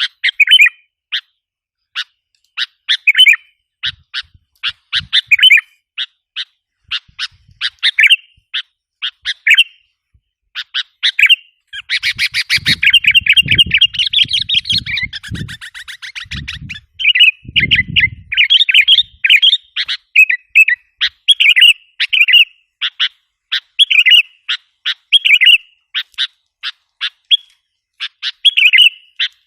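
Sooty-headed bulbul (kutilang) lure call: short, sharp chirping notes repeated over and over, with a long burst of rapid chattering about halfway through. A few low thumps sound under the chatter.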